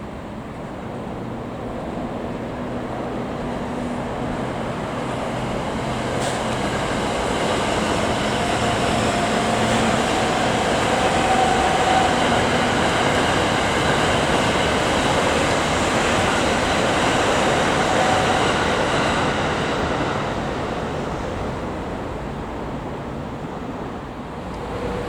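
Electric train passing, its running noise growing louder over about ten seconds and fading away near the end, with steady whining tones over the rumble of the wheels.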